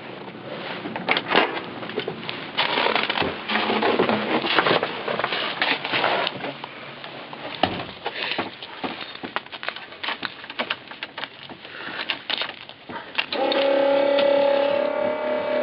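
Cold start of a Cummins turbo diesel with a P7100 injection pump, running through a straight open pipe: irregular clattering and crackling. About 13 seconds in, a steady high whine starts suddenly and holds.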